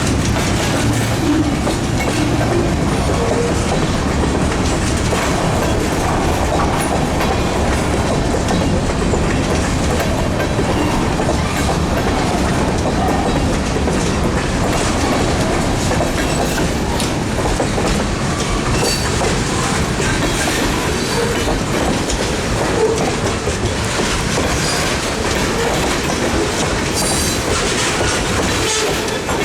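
Freight cars of a Housatonic Railroad local freight train rolling past, their wheels clicking over the rail joints in a steady clickety-clack.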